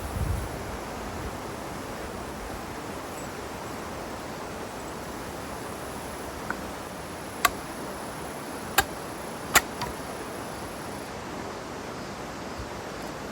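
Wood fire burning with a steady hiss, broken by three sharp crackling pops a little past the middle.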